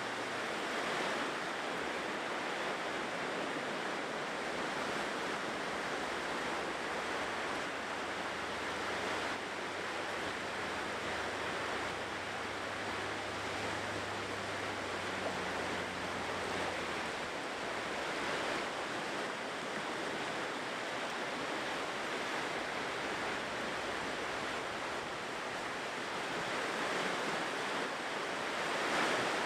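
Ocean surf breaking and washing onto a shore in a steady rush that swells now and then as larger waves come in.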